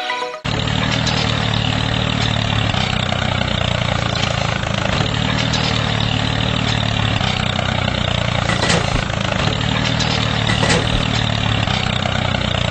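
A steady engine-like running sound, like an idling motor, starting abruptly about half a second in, with two short clicks near the end.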